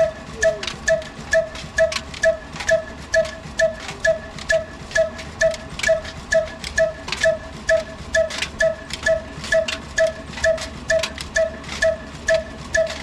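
Old 22 hp desi diesel engine running at a slow, steady beat of about two strokes a second, each stroke a ringing metallic knock with sharp clicks.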